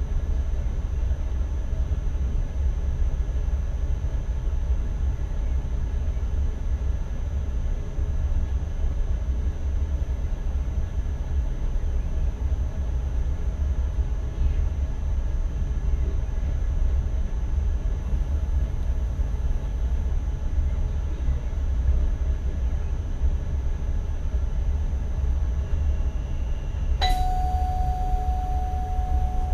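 Steady low rumble of an NS ICM electric multiple unit running, heard inside the driver's cab. Near the end a click is followed by a steady mid-pitched electronic tone from the cab that holds on.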